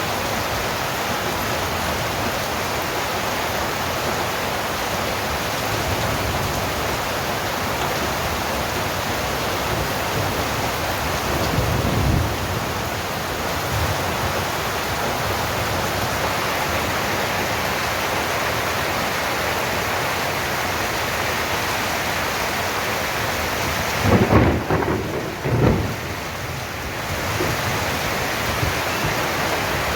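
Steady rain pouring down with water running in a drain, making an even hiss. Thunder rumbles faintly about twelve seconds in, then comes louder near the end as two rolls about a second and a half apart.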